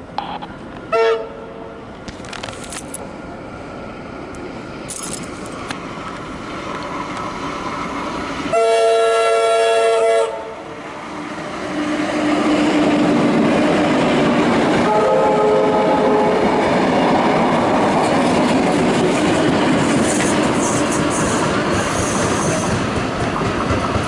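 Vintage Tait 'Red Rattler' electric suburban train approaching and passing. It sounds its horn: a short toot about a second in, a long loud blast about nine seconds in, and another about fifteen seconds in. The rumble and wheel clatter build and stay loud as it goes by.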